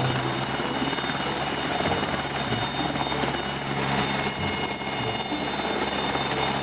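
Helicopter rotor sound effect running steadily, from the toy helicopter being shown.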